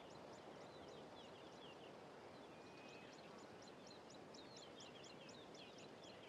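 Faint bush ambience: small birds chirping in quick runs of short, high, falling notes, several a second, over a low steady hiss.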